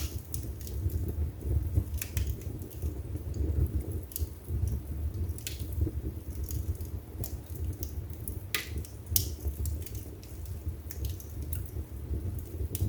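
Wood fire burning in a fireplace: irregular sharp crackles and pops over a steady low rumble of the flames, with one louder pop a little past the middle.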